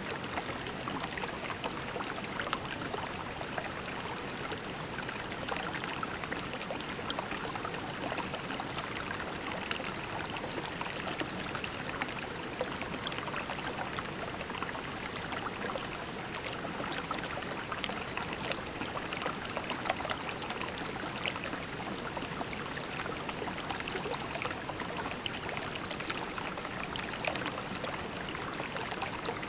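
Shallow creek water flowing over pebbles, a steady babble with many small splashes and trickles.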